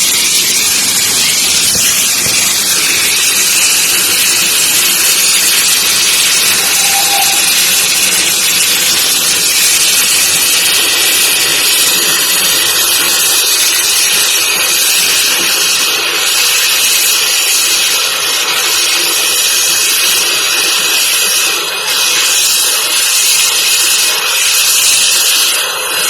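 GWR Castle class steam locomotive 7029 venting steam in a loud, steady hiss, with no exhaust beats.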